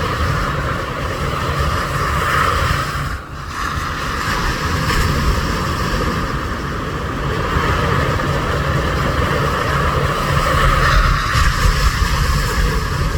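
Wind buffeting the phone's microphone in a steady rumble, over the wash of sea waves at the shore, with a brief lull about three seconds in.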